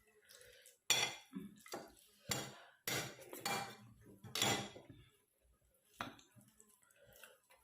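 Metal utensils clinking and scraping against dishes while food is served and eaten, a string of sharp clinks through the first five seconds and one more about six seconds in.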